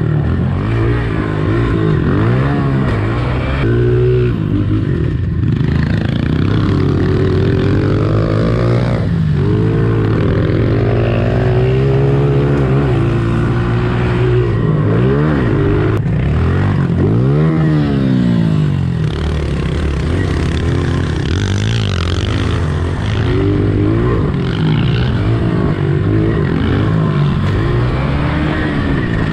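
Honda pit bike four-stroke single-cylinder engine revving up and down over and over as the bike is ridden round a dirt track, its pitch rising and falling with each throttle opening and gear change.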